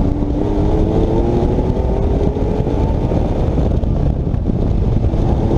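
Porsche 997 911's flat-six engine pulling under acceleration during an autocross run, its pitch climbing steadily, over a heavy rumble of road and wind noise.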